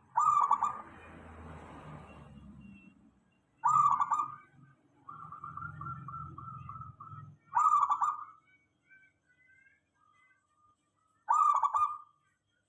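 Zebra doves (perkutut) cooing: four loud, short calls about every three and a half to four seconds, with a quieter rapid trill of coos between the second and third.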